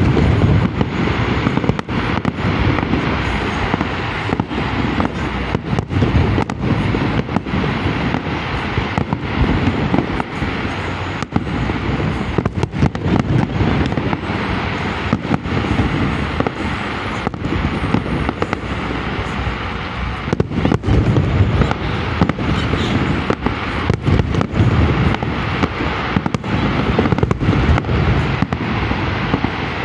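Fireworks finale: a dense, continuous barrage of aerial shell bursts and crackling bangs, one after another with no pause.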